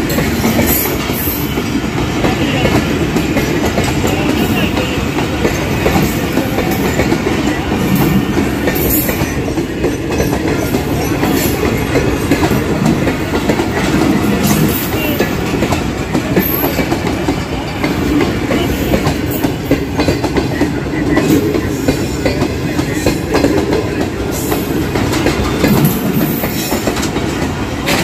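A passenger train rolling along the track past the platform as it arrives: a steady rumble, with the wheels clicking over the rail joints.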